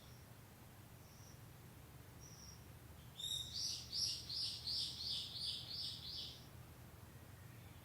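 Japanese bush warbler (uguisu) singing: a short opening note, then a quick run of about seven repeated high notes lasting some three seconds, a few seconds in. Faint single chirps come before it, over a steady low background rumble.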